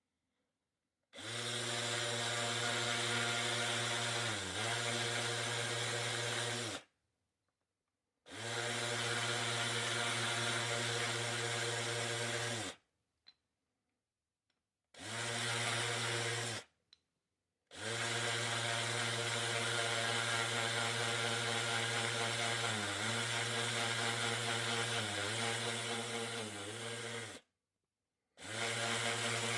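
Small electric power tool sanding a basswood handle, running in five spells of a few seconds each that start and stop abruptly. Its motor pitch sags briefly several times as the tool is pressed into the wood.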